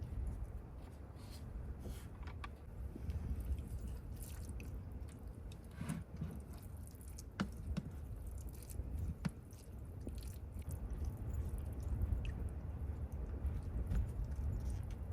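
Steady low rumble, the kind wind makes buffeting a parked car, with scattered small clicks and crunches on top.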